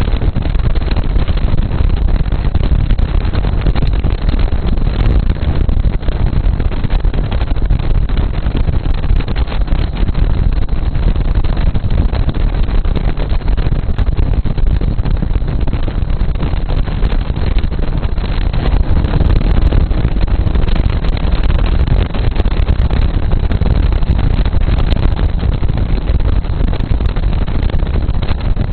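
Loud, steady wind rumble buffeting the microphone of a camera taped to a moving bike.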